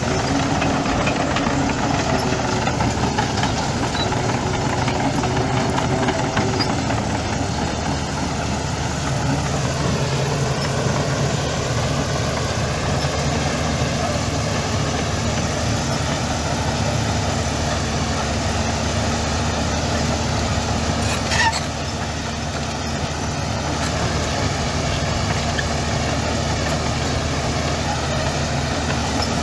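Heavy diesel engine of earth-moving machinery running steadily, with a brief high squeal about two-thirds of the way through.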